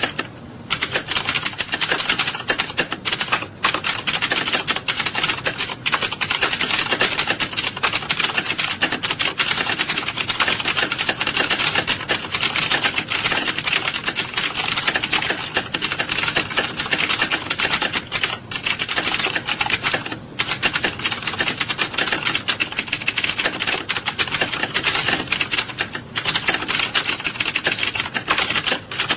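Many people typing at once in a typing class: a dense, continuous clatter of keystrokes with a few brief lulls.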